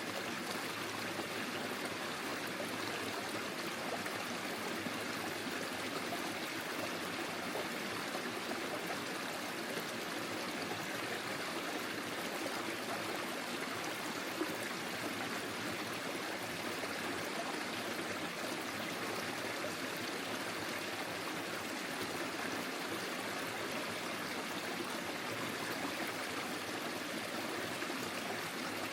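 Forest stream flowing over stones: a steady rush of water with trickling and gurgling.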